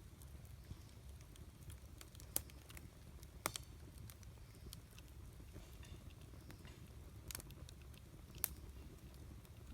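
Wood fire burning, with sparse sharp crackles and pops from the burning logs, four of them louder than the rest, over a soft low rumble.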